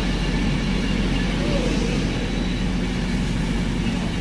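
Passenger train passing through the station at speed without stopping: a steady rush of wheels on rail with a low rumble underneath.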